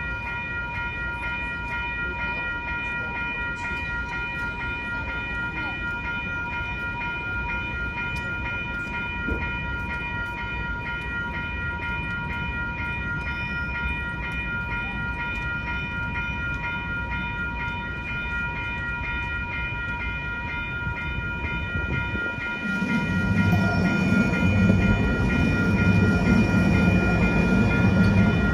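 A railroad crossing warning bell ringing steadily, in a continuous run of even, repeated dings. About 22 seconds in, an MTS light-rail tram arrives and rumbles through the crossing, louder than the bell.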